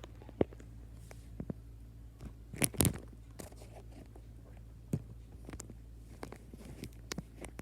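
Ceiling fan motor humming steadily, with scattered sharp clicks and a brief crunching rustle a little under three seconds in, which is the loudest sound.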